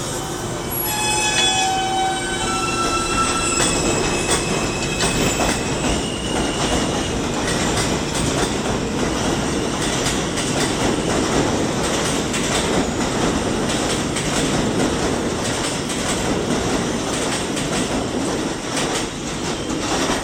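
New York City subway M train moving on the rails. Its steel wheels squeal in several high tones for the first few seconds, then give way to a steady rumble and clatter of the cars.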